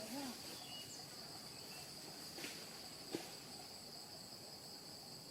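Steady, high-pitched insect chorus, with a couple of faint taps a little past the middle.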